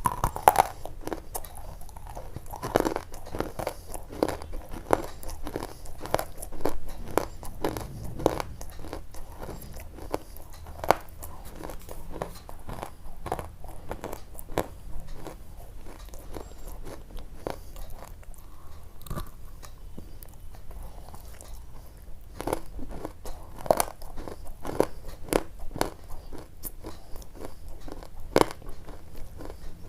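Something brittle being crunched: irregular sharp crunches, one or two a second, thinning out for a few seconds past the middle of the stretch.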